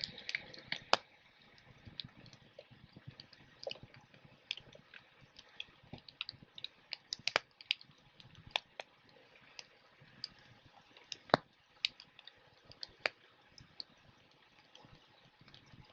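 Wood fire crackling: sparse, irregular sharp pops and snaps over a faint hiss, a few of them louder than the rest.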